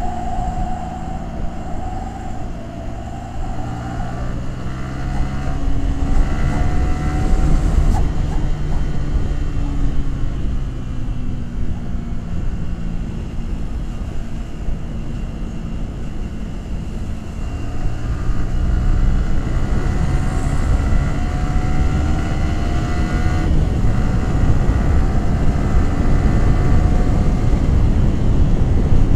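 Yamaha R15 V3's 155 cc single-cylinder engine and exhaust while riding, its pitch climbing twice as the bike accelerates through the gears, over a steady low rush of wind and road noise.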